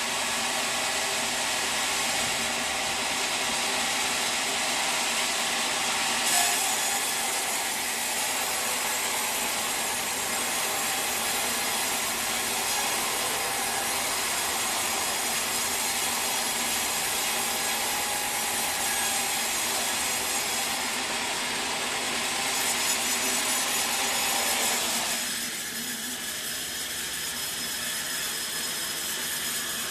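Sawmill saw cutting steadily through a teak log. The sound goes on without a break, then turns lighter and a little quieter about four-fifths of the way through.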